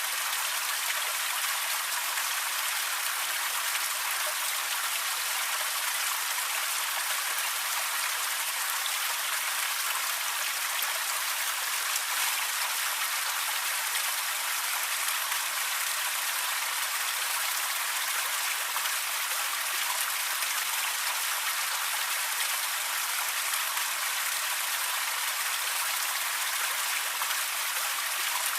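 Steady rushing hiss of falling water from a waterfall, even and unbroken, with most of its energy in the upper range and little low rumble.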